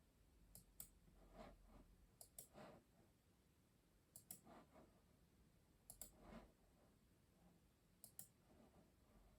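Custom mechanical keyboard keys pressed one at a time, a sharp click pair about every two seconds, each followed by a softer, duller tap. Faint overall.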